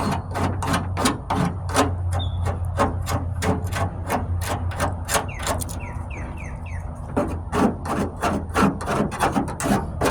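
Surform flat rasp blade being scraped in quick strokes across hardened Bondo body filler, about three rasping strokes a second, with a short slower stretch a little past the middle. This is the filler being roughed and levelled down before sanding.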